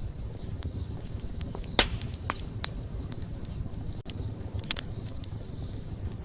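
Wood fire crackling over a low steady rumble of flames, with irregular sharp pops; the loudest pop comes a little under two seconds in.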